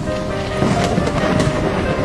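Background music with held notes over steady rain. About half a second in, the rain noise swells with a roll of thunder.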